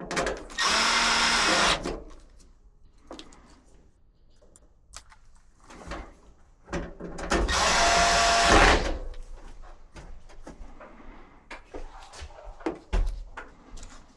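A handheld power tool running in two short bursts, about a second and then nearly two seconds long, with light clicks and knocks of handling between them.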